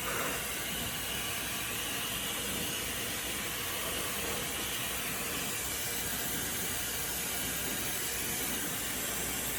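Ionic hair dryer running, a steady even rush of blown air.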